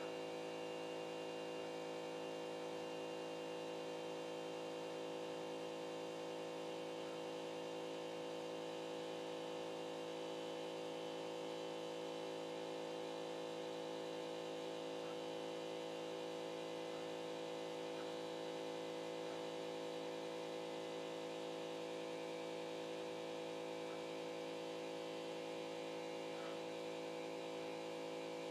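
CNC pen-plotter drawing machine running, its motors making a steady hum of several fixed pitches, with a few faint ticks.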